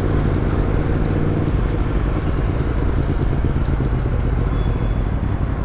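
Yamaha MT-10's crossplane inline-four running through an Arrow aftermarket exhaust at low, steady revs, the note turning rougher after about a second and a half, over wind and road noise.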